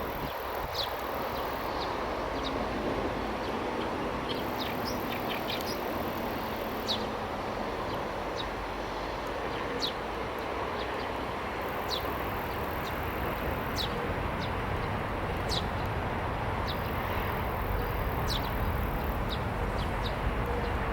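Eurasian tree sparrows chirping: short, sharp, high chirps scattered singly and in quick little runs over steady background noise.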